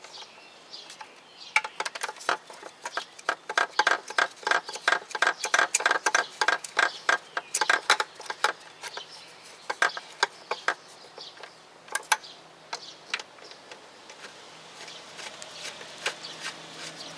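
Socket ratchet clicking in quick runs, about four clicks a second, as starter-motor mounting bolts are run down; the clicking thins to a few scattered clicks after about eleven seconds.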